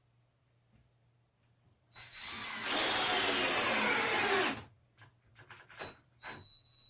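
Cordless drill-driver running for about two and a half seconds, a couple of seconds in, with its motor pitch sinking as it goes. It is most likely driving a screw into the wood frame on a battery that is running flat. Small clicks and knocks of handling follow.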